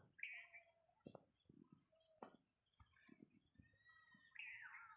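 Faint birdsong: a short call just after the start and a longer, falling call near the end, over faint high chirping that repeats throughout.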